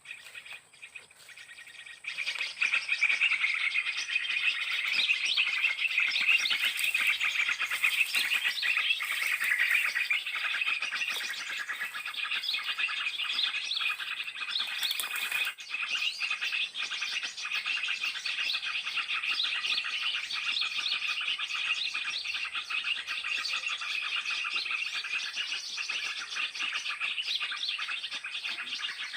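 Dense, continuous chatter of many small birds chirping at once: a 'burung ribut' (noisy-birds) lure call played through a speaker to draw birds down for trapping. It starts abruptly about two seconds in.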